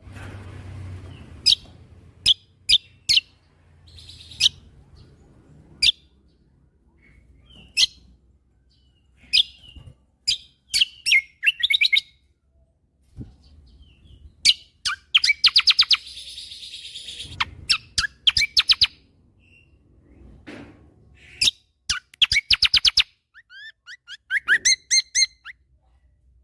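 A kecial kombok (cucak kombo) singing: sharp high whistled notes spaced out, broken by fast rapid-fire runs of repeated notes (its 'tembakan'), and a string of quick down-slurred notes near the end.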